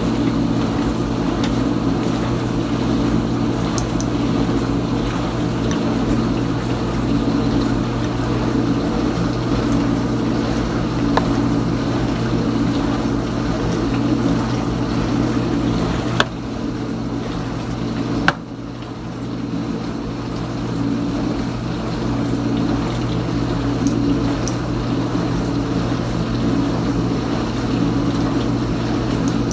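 Kenmore Ultra Wash 3 dishwasher mid-wash: the circulation pump hums steadily while water sprays inside the tub. Two sharp clicks come about two seconds apart, past halfway through; after each the sound drops, then builds back up.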